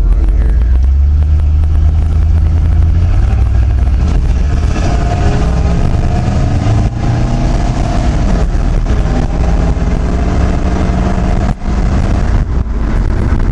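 Chevy Silverado 1500 pickup driving under its own power on a test drive of a newly installed 700R4 automatic transmission, the engine running loud and steady with its note slowly rising in the middle as the truck accelerates.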